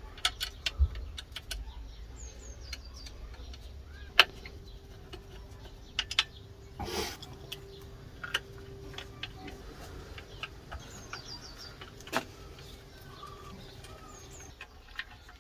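Scattered metallic clicks and knocks of clutch parts and hand tools being handled while a clutch is fitted to an engine's flywheel. A bird chirps in short descending runs a few times, and a faint steady hum runs through the middle.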